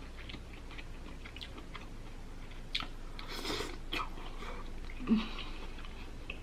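Close-up eating sounds from a seafood boil: chewing and biting with scattered small clicks. There is a half-second noisy crunch about three and a half seconds in, and a short louder knock about five seconds in.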